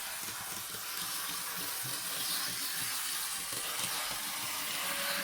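N scale model tram running at full throttle on its track: a steady high hiss-like whir from the small motor and wheels, with faint irregular clicks.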